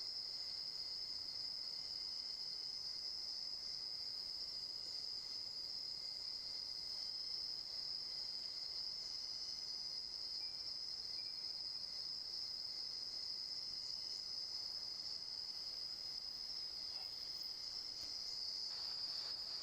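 Nocturnal insect chorus: a steady, unbroken high-pitched trill. A fainter, lower steady tone beneath it drops out near the end.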